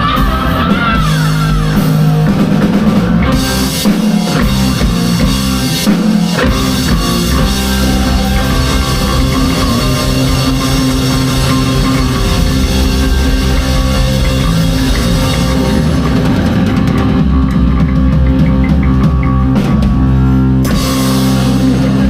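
Live rock band playing an instrumental passage at full volume, with a drum kit and electric guitar.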